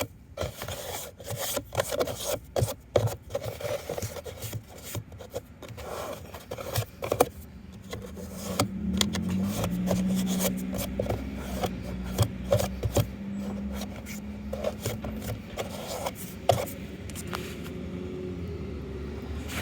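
Hands rubbing and scraping inside a plastic dryer vent hood, pulling out lint, in an irregular run of scrapes and clicks. From about eight seconds in, a steady low hum sounds underneath.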